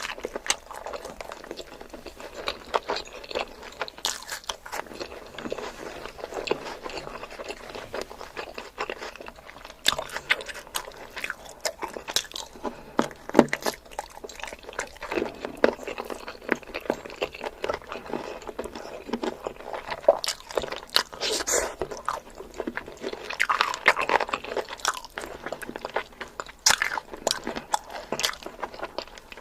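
A person eating close to the microphone: chewing and biting crunchy food, with irregular crunches and sharp mouth clicks.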